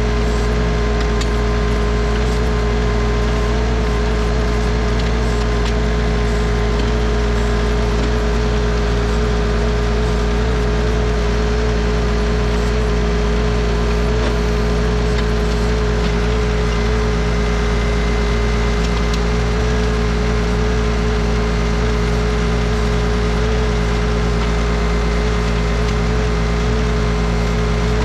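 Bad Boy 4035 tractor's engine running steadily under backhoe work, with a steady whine over it.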